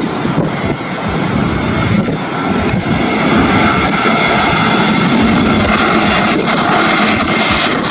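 Airbus A321neo airliner's jet engines running loud, a dense rushing noise with steady whining tones on top; it grows louder about three seconds in and then holds.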